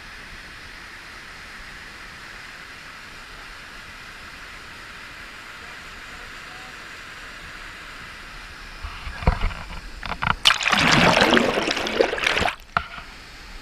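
Steady rush of flowing river water, then, from about nine seconds in, a few seconds of loud, irregular splashing and sloshing close by.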